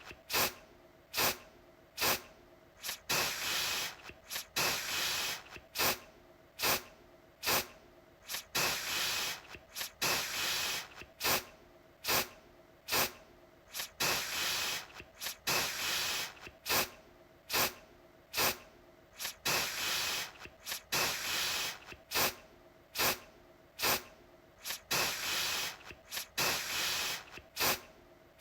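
Aerosol deodorant can spraying in repeated bursts, short sharp puffs mixed with longer hissing sprays of about half a second to a second, over and over with brief gaps.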